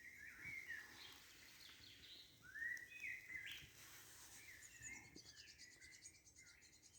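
Faint forest birdsong: several birds chirping and whistling in short phrases, with a fast, high trill starting about two-thirds of the way through.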